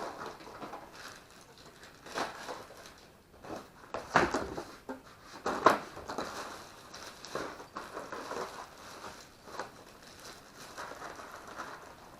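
Small plastic misting-system parts (nozzles, push-in fittings and tubing) being handled, giving irregular clicks and knocks, the loudest about four and six seconds in.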